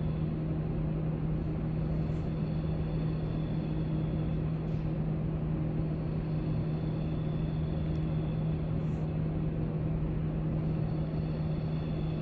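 Library room noise: a steady low hum under a constant airy rush, with a few faint ticks now and then.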